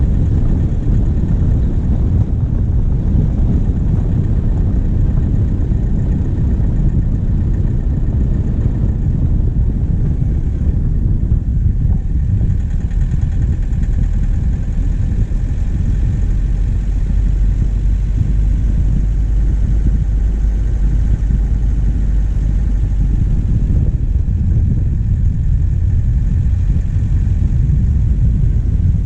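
Diesel engine of a vehicle driving steadily, picked up on the bonnet as a loud, constant low rumble. A deeper steady hum comes up about twelve seconds in.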